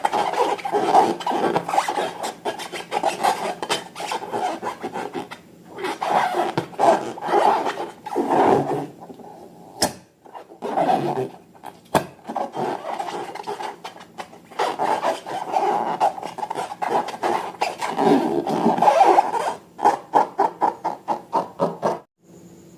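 Slime being worked by hand, squished and stretched, giving a continuous sticky crackling and rubbing with many small pops. The sound pauses briefly a few times, ends in a run of quick clicking pops, and cuts off suddenly.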